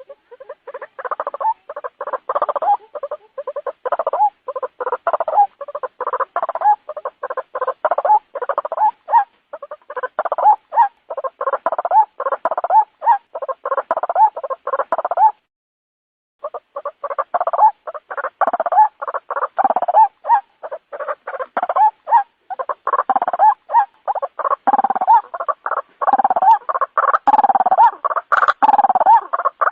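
White-breasted waterhen (ruak-ruak) giving its rapid, repeated croaking calls in an unbroken chatter. The calls break off abruptly for about a second midway, then resume.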